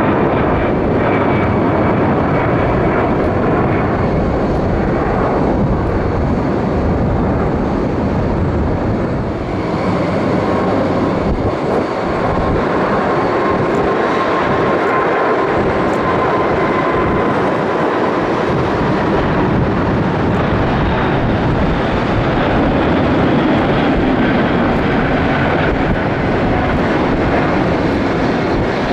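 A jet airliner's engines: a loud, steady rush of noise with faint whining tones sliding slowly down in pitch.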